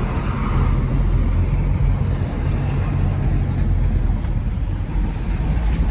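Steady, low engine and road noise of a truck under way.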